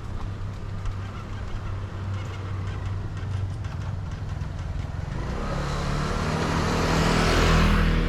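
A motor vehicle passes close by: a steady low engine hum, then engine and tyre noise swelling over the last few seconds to a peak just before the end.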